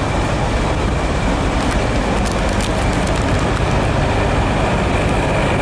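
Heavy diesel trucks running: a steady low rumble with a thin, steady high whine over it.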